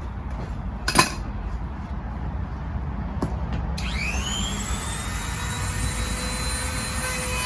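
A sharp click about a second in over a steady low rumble, then a high whine that rises quickly just past halfway and holds steady, as of a power tool spinning up to speed.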